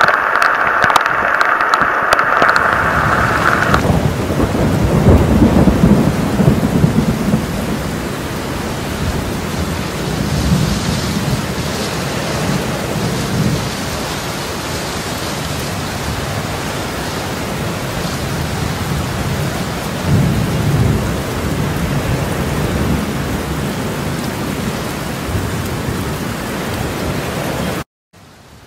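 Steady heavy rain with thunder rolling several times, one long roll building about five seconds in and others around ten and twenty seconds in. The sound cuts off abruptly near the end.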